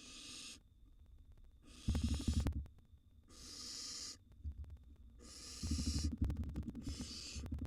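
Barn owl nestlings giving their raspy, hissing begging calls ('snoring'). About five separate hisses come in turn, each under a second long, with low thumps and scuffling from the chicks moving about on the nest-box floor, busiest in the second half.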